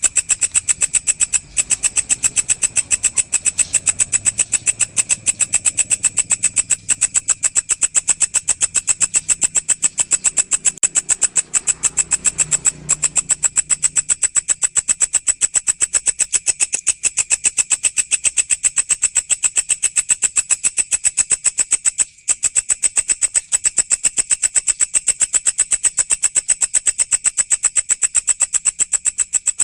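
Walang (singing grasshopper) stridulating: a fast, steady train of high-pitched pulses that goes on without let-up, with one short break about 22 seconds in.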